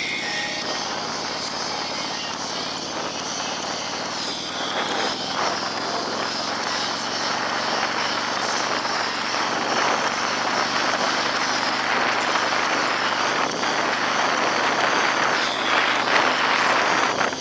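Motorcycle underway: a steady engine drone under a rush of wind on the microphone, growing gradually louder.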